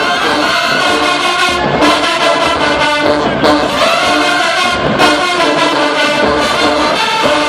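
HBCU show-style marching band playing loudly in the stands: a full brass section of trombones and trumpets over a steady beat of drums.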